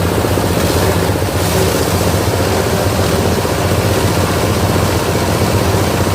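Diesel engine driving a multipurpose chopper-grinder, running steadily while the machine grinds wood planer shavings.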